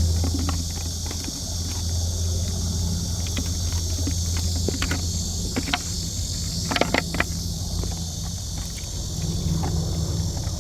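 A steady low hum, like a running engine, under a high steady hiss, with scattered light clicks and taps and a brief cluster of clicks about seven seconds in.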